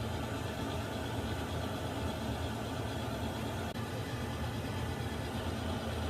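Water heater running: a steady, even low rumble with hiss over it, and one faint tick a little past the middle.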